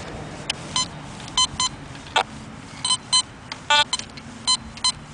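Metal detector giving a series of short, irregular beeps as its coil is swept over the ground, mostly at one pitch with one lower tone partway through.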